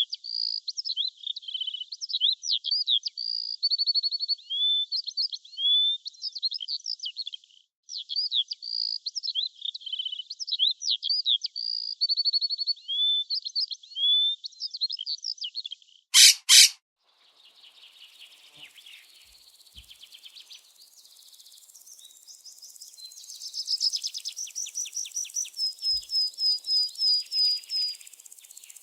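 Bird chirping and whistling in rapid, varied high notes, one long phrase heard twice. About sixteen seconds in there is a short loud sound, then a faint insect-like trill and a quick run of high repeated notes near the end.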